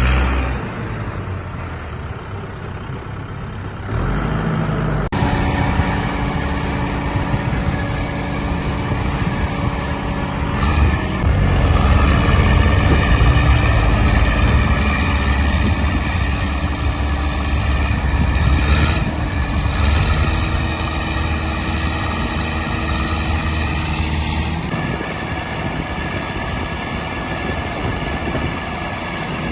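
Massey Ferguson tractor's diesel engine running steadily, working harder with a deeper, louder rumble through the middle stretch. The sound changes abruptly twice near the start.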